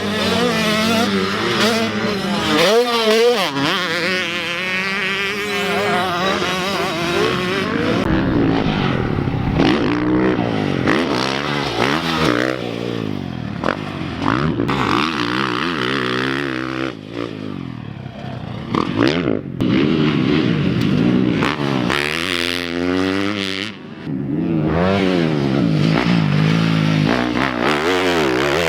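Motocross dirt bikes revving hard on the track, engine pitch climbing and dropping again and again as the riders accelerate, shift and back off through corners and jumps, with more than one bike heard at times.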